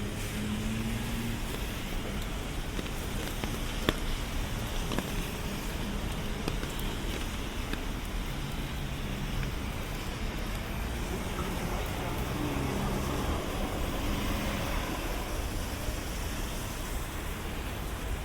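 Steady city street noise in the rain: road traffic with a wash of rain and wet tyre hiss, and a faint engine hum that comes and goes. A single sharp click sounds about four seconds in.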